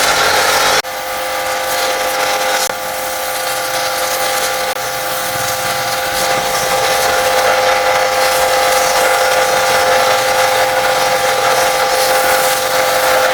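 High-pressure washer spraying: a steady motor and pump whine over the hiss of the water jet, with abrupt jumps in level about a second in and near three seconds in.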